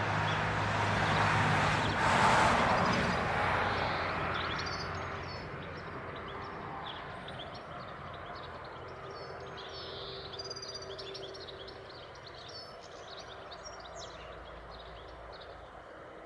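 A vehicle passing by, its noise and low engine hum swelling to a peak about two seconds in and then fading away. Small birds chirp repeatedly through the rest, clearer as the vehicle recedes.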